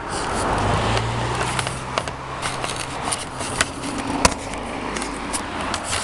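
Road noise on a bicycle ride: a steady rush of traffic and tyres, with a low engine hum for a couple of seconds near the start and many sharp clicks and rattles.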